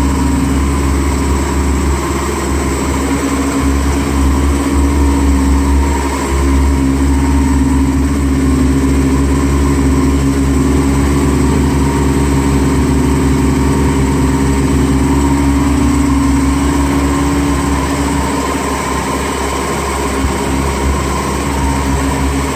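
Yamaha Apex SE snowmobile's four-stroke four-cylinder engine running steadily at idle.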